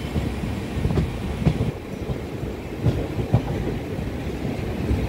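Shalimar Express passenger coaches rolling past as the train departs: a steady low rumble with irregular heavy clacks as the wheels cross rail joints.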